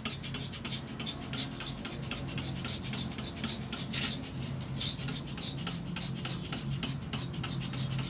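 Brush scrubbing soap into the dusty front of a window air conditioner, in quick back-and-forth strokes, about five a second.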